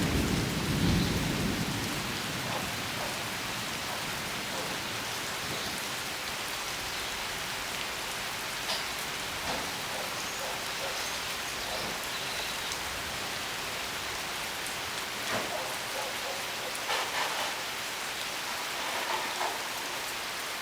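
Steady rain pattering on surfaces, with a low rumble of thunder fading away in the first couple of seconds. A few louder drops land now and then.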